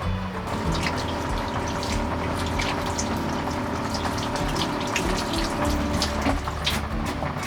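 Heavy rain, water pouring and splattering steadily with many small splashes.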